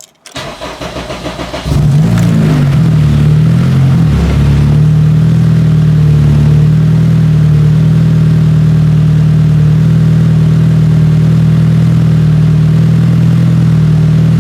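Car engine cranked over by the starter for about a second and a half, catching and flaring up in revs briefly, then settling into a steady idle.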